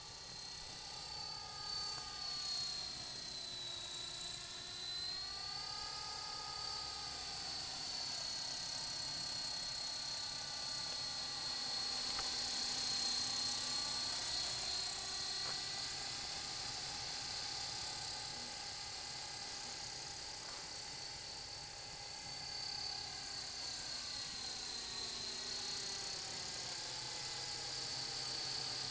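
Walkera LM3 radio-controlled helicopter in flight: its small electric motors and rotors whine steadily, with the pitch slowly rising and falling as the throttle is worked.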